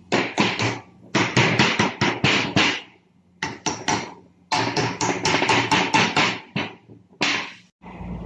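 A hammer beating on metal gearbox parts in bursts of quick blows, about five a second, with short pauses between the bursts.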